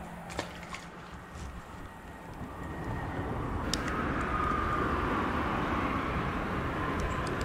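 A distant engine drone swells about two and a half seconds in and then holds steady, with a faint whine riding on it; a few small clicks come before it.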